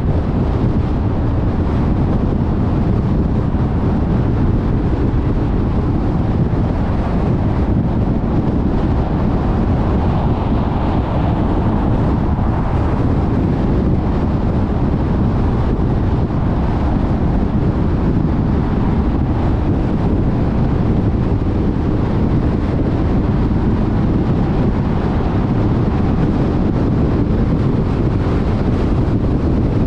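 Car driving at freeway speed: a steady rush of tyre and wind noise, heaviest in the low end, with no breaks or sudden sounds.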